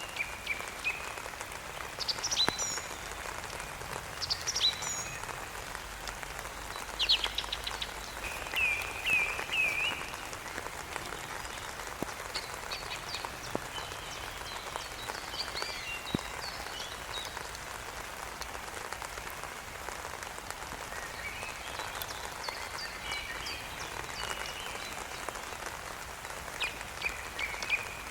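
Nature ambience: a steady rain hiss with scattered short, high chirping calls, several in the first ten seconds, more in the middle and again near the end.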